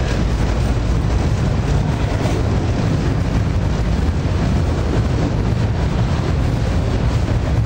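Freight train running past with a steady, loud rumble, with wind buffeting the microphone.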